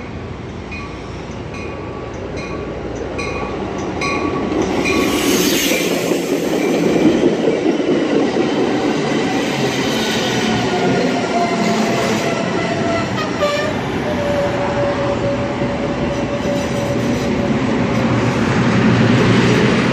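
Metra commuter train of stainless-steel bilevel cars pulling into the station and rolling past at close range, its rumble growing louder about four seconds in. A long squeal runs through the middle, dropping slightly in pitch, as the train slows to a stop.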